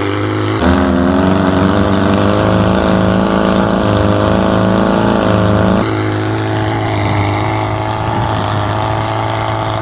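Air-cooled Volkswagen flat-four engine running at a steady, fairly even speed while driving in snow. Its tone shifts abruptly about half a second in and again near six seconds in.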